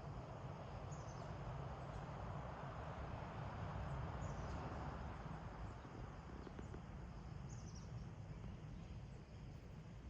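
Faint outdoor ambience: a low rushing background noise that swells and eases off, with a few short, high, faint chirps heard about three times.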